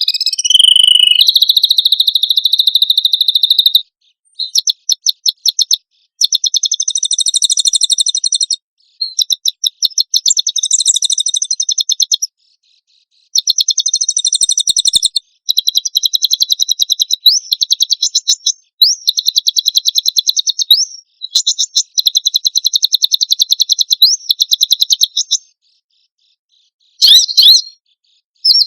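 Songbird song recorded as masteran training material: fast rapid-fire 'tembakan' phrases of high, sharply repeated chirping notes, each phrase lasting one to a few seconds with short breaks between, a few ending in a quick upward sweep. There is a longer pause near the end before a brief final burst.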